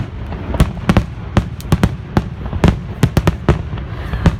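Fireworks going off: a rapid, irregular string of sharp bangs, about three a second.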